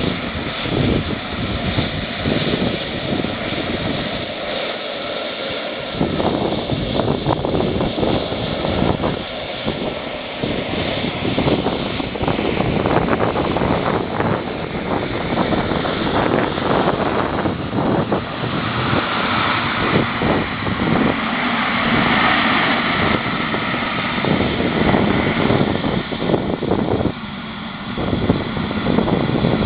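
Twin model jet turbine engines of a quarter-scale radio-controlled A-10 Warthog running, a steady rushing noise with a faint high whine that grows louder in the second half.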